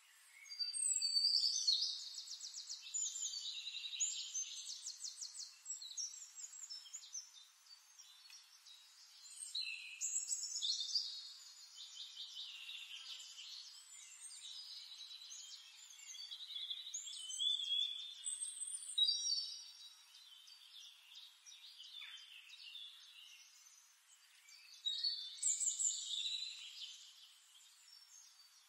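A small songbird singing in rapid trilled phrases, with several louder bursts of song and softer chirping between them.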